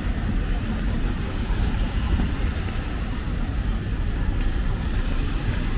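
Steady rainy city-street ambience: a low rumble of road traffic under an even hiss of rain.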